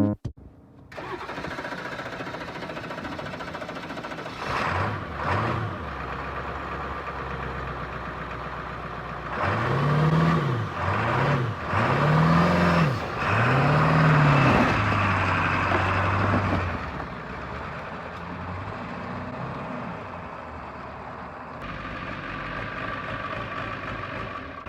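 Ford F-350 pickup engine idling, blipped twice, then revved four times in quick succession about ten seconds in, held briefly, and settling back to idle.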